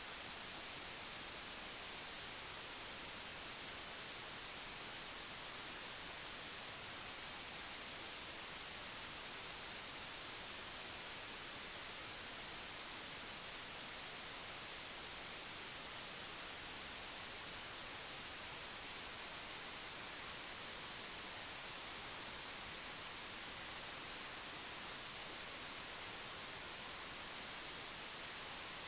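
Steady, unchanging hiss of static, brightest in the high treble, with no other sound standing out.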